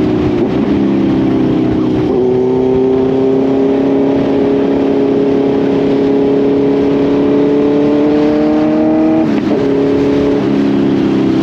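Kawasaki Z900 inline-four engine and exhaust under way, holding a steady note that climbs slowly in pitch, with brief breaks and pitch changes near the start, about two seconds in, and again around nine and ten seconds.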